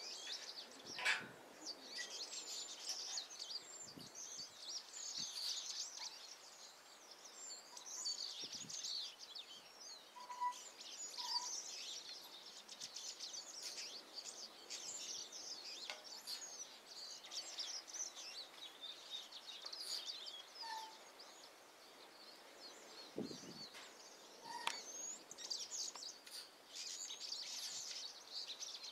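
Small birds chirping continuously, many at once, with a few short clearer notes and a couple of faint knocks.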